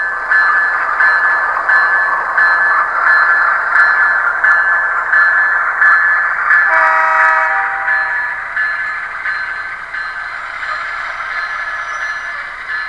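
A model locomotive's LokSound Select decoder playing GE AC4400 diesel sounds through its small speaker: a steady, thin-sounding engine and running noise with a regular pulsing beat, and one short horn blast about seven seconds in.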